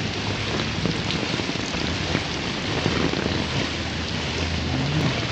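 Heavy rain pouring down, a steady dense hiss full of drops pattering on surfaces.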